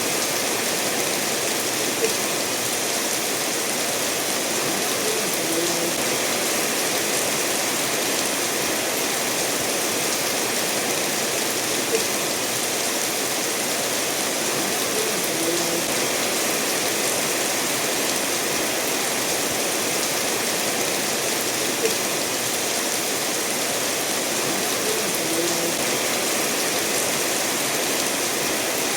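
Steady rain with a stream running over stones, a continuous even rush of water. A faint brief tick recurs about every ten seconds.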